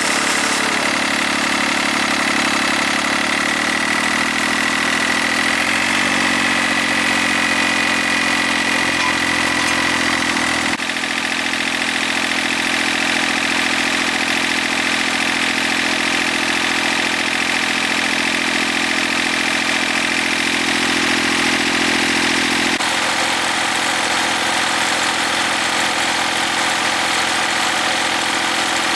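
Engine of a restored agricultural machine running steadily at a constant speed. Its pitch and tone jump abruptly a few times.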